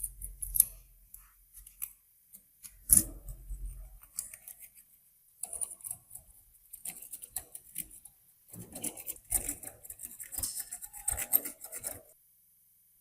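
Rusty manual meat grinder parts being handled: irregular metal clicks and knocks with bouts of scraping, a couple of dull thuds near the start, busier toward the end, then stopping about a second before the end.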